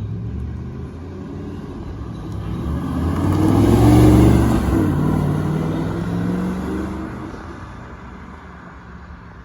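Audi R8's 4.2-litre V8 engine note swelling to its loudest about four seconds in, then dropping in pitch and fading away.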